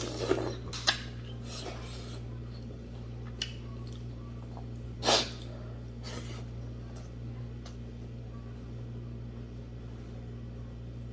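Close-up eating sounds: scattered sharp mouth smacks and clicks, and one louder, longer slurping rush about five seconds in, over a steady low electrical hum.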